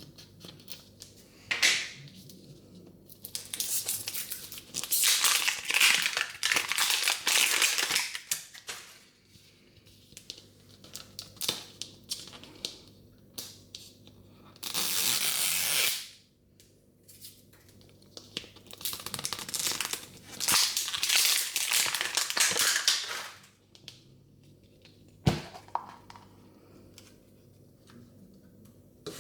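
Plastic wrapping on a Mini Brands surprise ball being crinkled and torn open in several bouts, with a steady peeling tear about 15 seconds in and one sharp plastic click about 25 seconds in.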